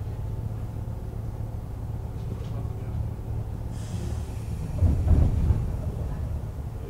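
Inside a JR East 101-series electric train: a steady low hum from the car, then a hiss of air about four seconds in and a brief louder rumble about a second later.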